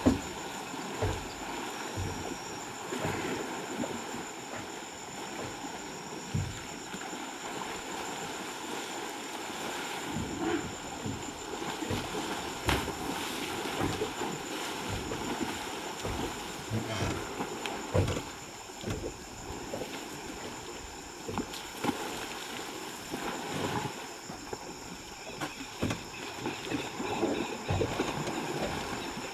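River water splashing and sloshing: irregular splashes and soft low thuds over a steady watery hiss.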